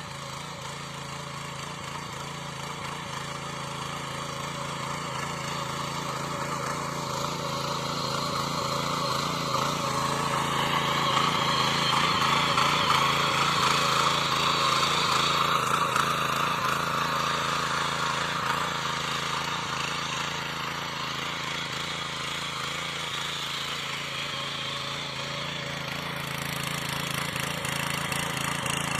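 Sraja power weeder's small engine running steadily under load while tilling soil. It grows louder toward the middle, eases off, then rises again near the end.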